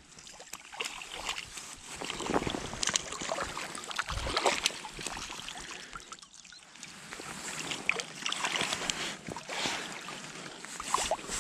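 Water splashing and trickling, mixed with irregular short clicks and knocks.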